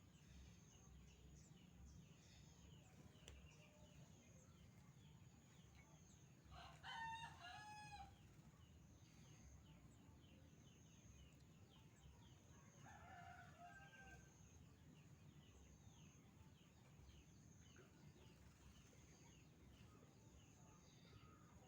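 A rooster crowing about seven seconds in, then a second, fainter crow around thirteen seconds, over a quiet low background.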